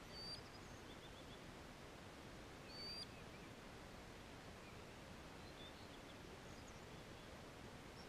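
Faint, short high bird chirps over a quiet steady hiss. Two brief calls stand out, one just after the start and one about three seconds in, with a few softer ones scattered between.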